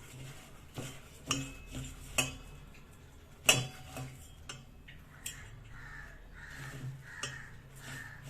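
A utensil knocking and clinking in a vessel as lumps of dried egg-coated millet are broken up, with a sharp knock about three and a half seconds in. In the second half, about five short rasping sounds come in quick succession.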